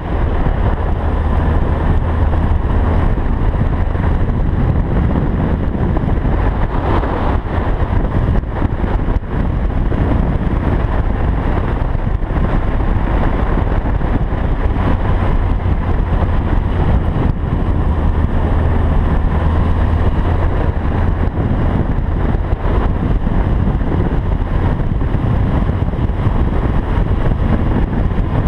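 2013 Honda CB1100's air-cooled inline-four engine running steadily under way, mixed with a heavy rumble of wind on the microphone.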